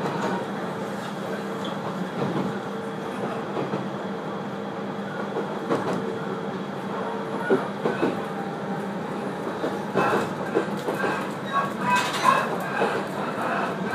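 701-series electric train running, heard from inside the car: a steady motor hum under the clickety-clack of wheels over the rails, with the clicks coming thicker in the last few seconds.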